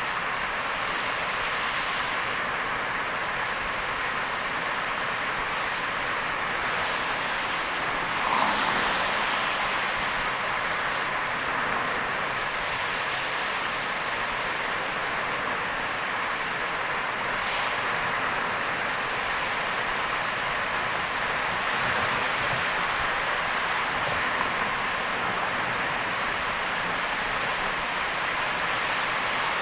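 Steady hiss of heavy rain and tyre spray from a car driving on a wet expressway, with a brief swell about eight seconds in.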